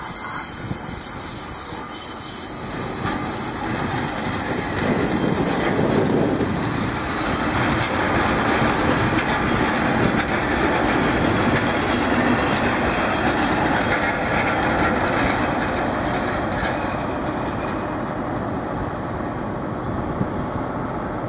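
Diesel multiple-unit trains moving through station platforms: a Pacer railbus running in, then a Class 175 diesel unit arriving. The train noise is steady, loudest in the middle and easing off near the end.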